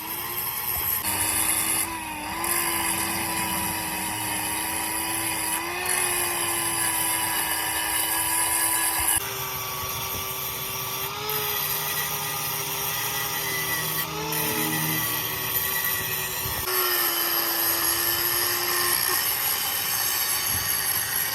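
A workshop machine's motor running steadily under load, holding a slightly wavering whining tone that jumps to a new pitch a few times.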